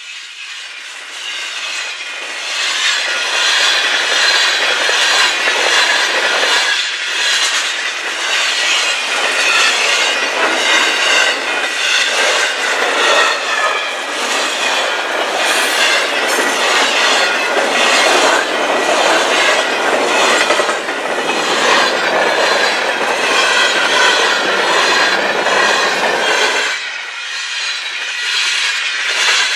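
Freight cars of a fast mixed freight train rolling past close by: a steady clatter of steel wheels over the rail, with high, wavering wheel squeal. It builds over the first few seconds and eases briefly near the end.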